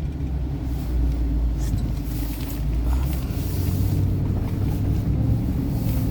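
A 2011 Ford F-350 pickup driving, heard from inside the cab: a steady low rumble of engine and road noise on a bumpy road. The low engine note changes pitch about halfway through.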